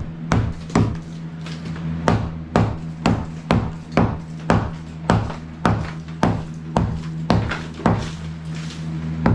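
Hammer blows striking a wall during demolition, an even run of sharp knocks at about two a second, over a steady low hum.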